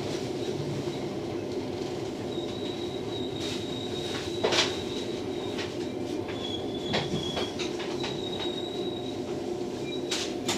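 Inside a JR West 227 series electric train running slowly into a station: a steady rumble with sharp clicks and knocks from the wheels, the loudest about four and a half seconds in. A thin high-pitched squeal comes and goes over it.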